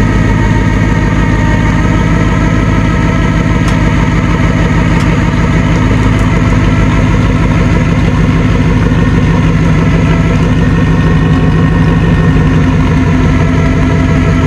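Vehicle engine running steadily at a low, even pitch, settling slightly lower and fuller about halfway through.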